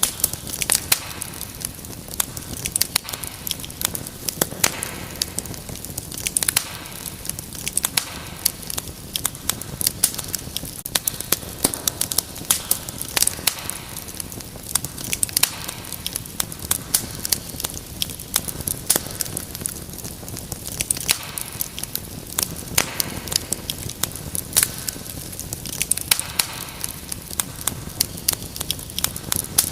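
Wood fire crackling in a fireplace: frequent irregular sharp snaps and pops over a steady soft hiss.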